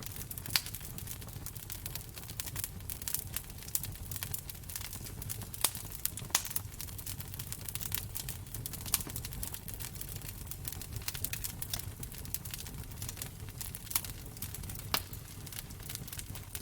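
Wood fire crackling in a fireplace, with a steady low rumble and irregular sharp pops, several of them louder than the rest.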